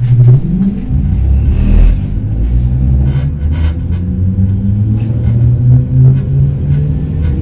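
Narrow-gauge X10-type electric commuter train accelerating: a steady motor hum that slowly rises in pitch, with sharp clicks and knocks from the wheels on the track.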